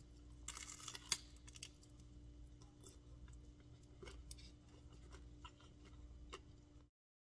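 Faint crunching as a fried taquito is bitten into, then quiet chewing with a few small clicks, over a low steady hum.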